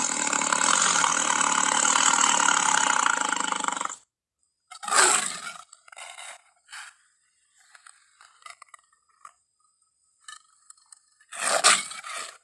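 Big-cat roar sound effects: a long, harsh roar that cuts off suddenly about four seconds in. A short loud roar follows about a second later and another comes near the end, with faint short grunts between them.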